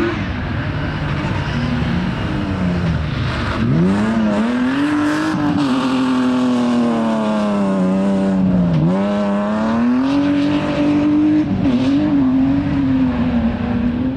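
Rally car engine being driven hard on a stage: it climbs steeply in pitch about three and a half seconds in, holds high, drops sharply once near the middle as the driver lifts or changes gear, then climbs again.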